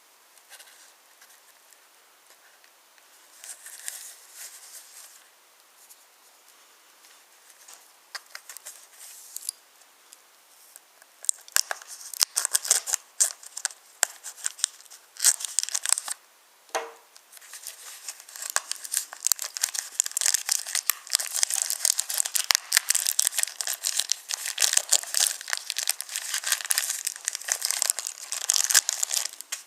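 Wooden toy trains clattering along wooden railway track, the wheels and couplings making dense small clicks and rattles. There are only a few scattered clicks at first, then continuous, louder clattering from about eleven seconds in, with one brief squeak partway through.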